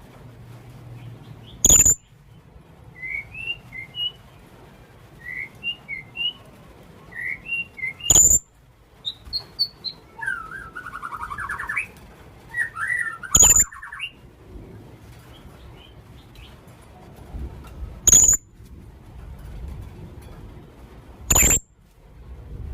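A young blue-crowned hanging parrot (serindit) calls: five piercing, very high-pitched shrieks a few seconds apart. Softer twittering chirps come between them, with a short chattering run about ten seconds in.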